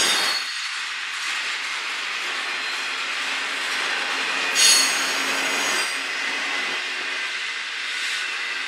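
Double-stack container train rolling past on jointed track: a steady rumble and clatter of well-car wheels on the rails. About four and a half seconds in, a brief high-pitched wheel squeal is the loudest moment; a weaker one comes at the start.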